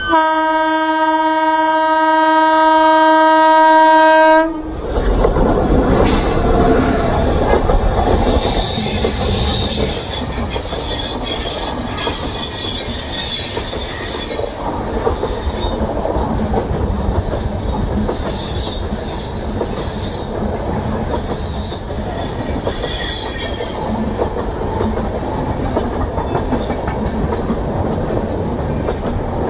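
WAP-7 electric locomotive's horn sounding one long steady blast of about four and a half seconds, then the express's coaches rolling past with wheels clattering over the rail joints and squealing on and off.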